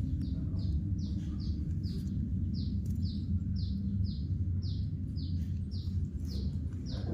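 A bird calling a steady run of short, high, down-slurred chirps, about two a second, over a steady low hum.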